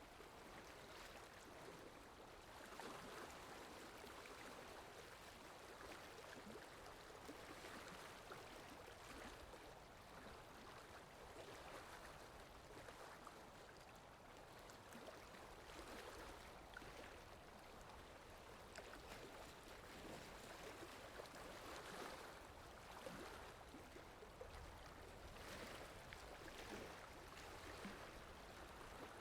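Faint, steady rain falling in a forest, an even hiss that swells gently every few seconds.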